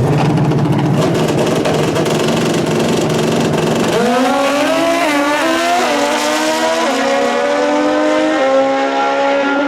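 Drag racing motorcycle launching hard, then accelerating down the strip with its engine pitch climbing and dropping back at each of about four quick gear shifts.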